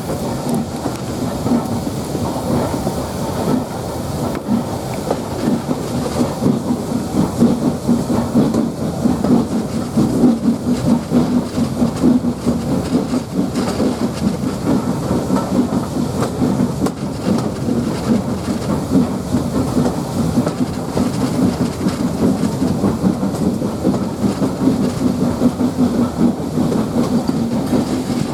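Steam-hauled heritage passenger train running along the track, heard on board: a steady, loud rumble of the coaches' wheels on the rails.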